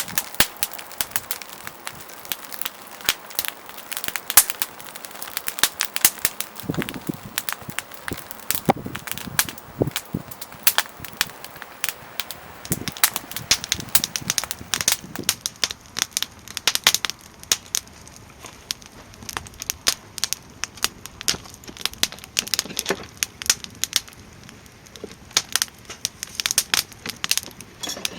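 Wood fire crackling and popping in a small campfire pit: many sharp, irregular snaps throughout.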